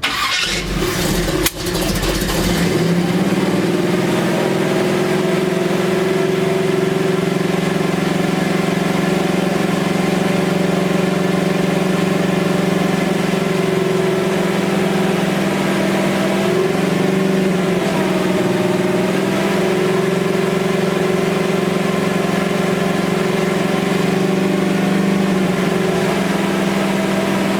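Chevy C10 engine cranking on the starter and catching about two seconds in, then running at a steady fast idle for camshaft break-in.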